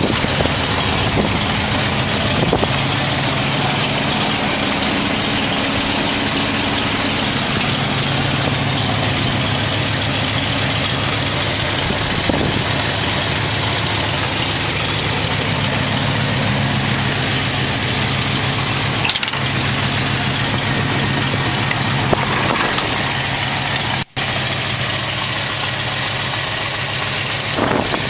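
V8 engine of a custom 1951 Ford F-1 pickup idling steadily. The sound cuts out for an instant about three quarters of the way through.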